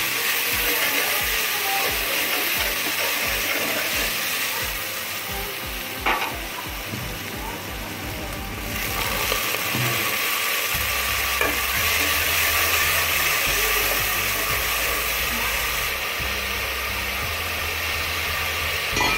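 Onions, ginger-garlic paste and chopped tomatoes sizzling as they fry in oil in an aluminium pot, with a metal ladle stirring and a single sharp knock about six seconds in. Near the end water is poured into the pot.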